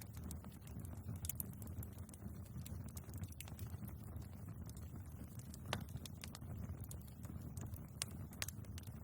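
Wood fire burning in a fireplace: a steady low rumble of the flames with irregular sharp crackles and pops of the logs, one louder pop a little past halfway.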